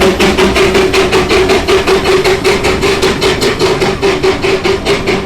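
Miniature train running, with a fast, even beat of about six or seven sharp strokes a second and a steady hum underneath.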